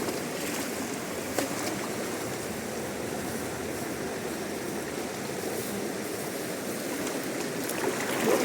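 Fast river water rushing steadily, with one short knock about a second and a half in.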